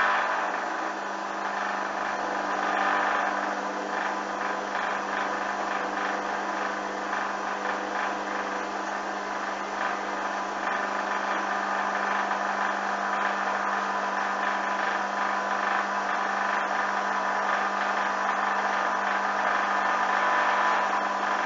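Hoover washing machine in its intermediate spin, the drum motor running with a steady hum and whine while it spins off the suds.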